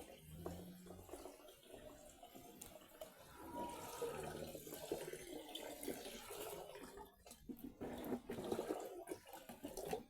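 Water pouring and splashing from a plastic jerrycan that is leaking through a cut.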